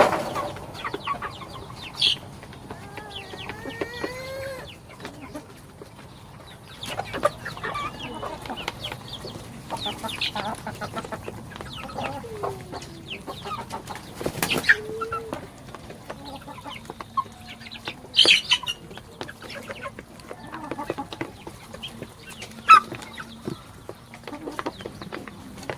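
Chickens clucking on and off, mixed with scattered short knocks and rustles, a few louder sudden sounds standing out.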